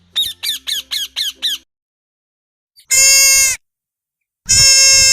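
Animal calls: six short, quick calls, each falling in pitch, then two longer, steady, high-pitched calls about a second and a half apart.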